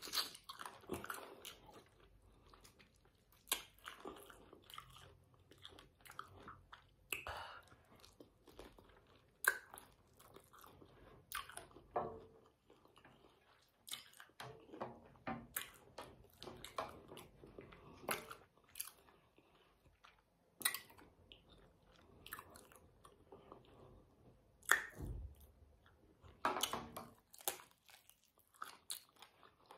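A person chewing and biting sauced chicken feet: wet chewing broken by irregular crunches and sharp clicks, one every second or two.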